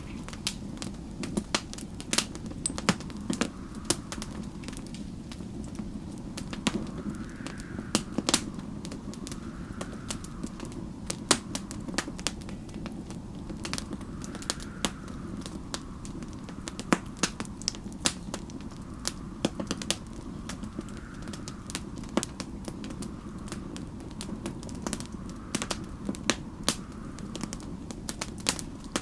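Wood fire crackling, with irregular sharp pops over a steady low rumble. A faint whistle of storm wind rises and falls every couple of seconds.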